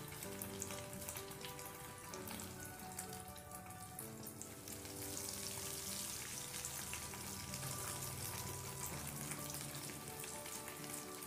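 Breadcrumb-coated bread pieces sizzling as they fry in hot oil in a pan, the sizzle growing louder about five seconds in. Soft background music plays along.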